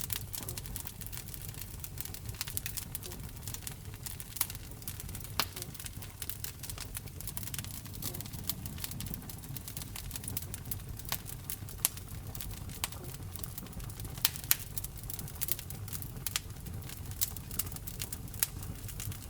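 Wood fire burning in a fireplace: frequent sharp, irregular crackles and pops over a low, steady rumble of the flames.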